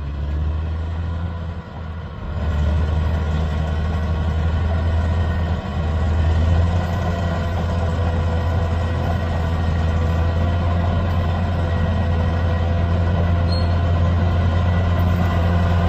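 Bulldozer's diesel engine running steadily under load, a deep even hum, dipping briefly about two seconds in.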